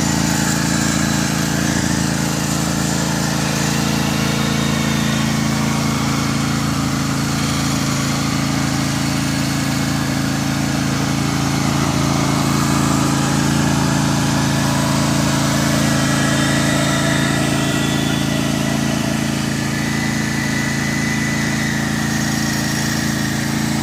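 Tractor engine running steadily at constant speed while working the ground.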